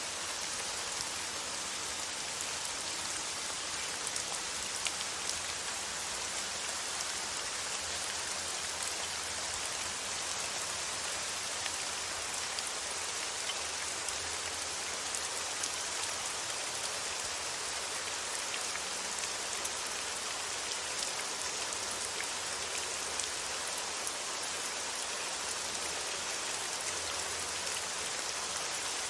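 Steady rain falling, an even hiss with scattered small drop ticks, used as soothing white noise.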